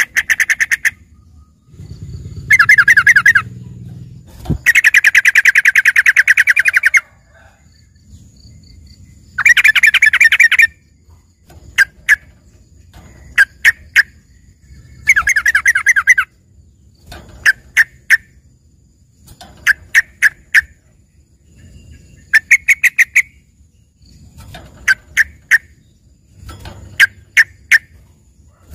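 Yellow-vented bulbul (trucukan) singing prolifically a song trained in from another bird, which the keeper likens to a cucak ijo (green leafbird). Long fast rattling trills alternate with short bursts of three or four quick, sharp notes.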